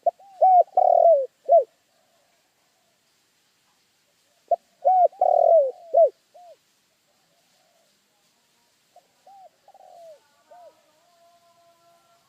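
Spotted dove (tekukur) cooing: three phrases of its rhythmic coo, each a few short notes with a longer drawn-out note in the middle. The third phrase is much fainter.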